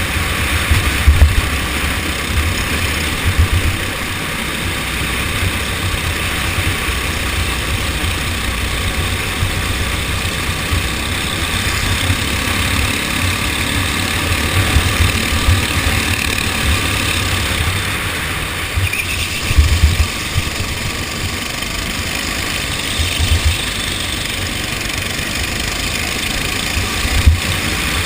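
Racing kart engine running under way, with a heavy irregular low rumble over it and a few louder jolts, about 1 second in, near the middle and near the end.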